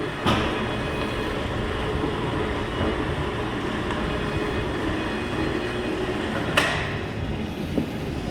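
Machinery running steadily with a low hum, broken by two sharp clanks, one just after the start and one near the end.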